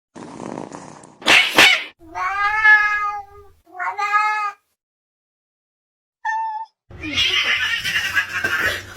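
Cat meowing: two long, drawn-out meows about two seconds in, among other short noises.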